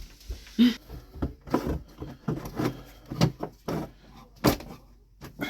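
Irregular knocks, taps and clicks of a part being handled and pushed into a hole cut in wall paneling until it sits snugly, about a dozen in all, with the loudest knocks about half a second in and again around two-thirds of the way through.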